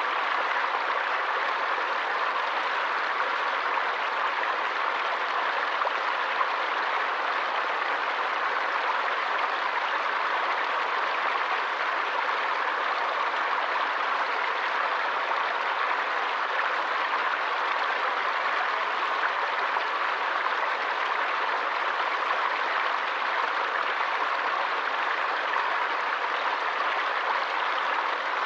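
Running water of a forest stream, a steady, even wash of noise that does not change.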